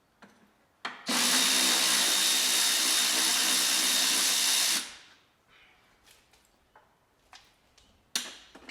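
A power tool runs steadily for nearly four seconds, starting about a second in and then winding down, with a high steady whine over the rushing noise. Light clicks come before it, and a sharp knock comes near the end.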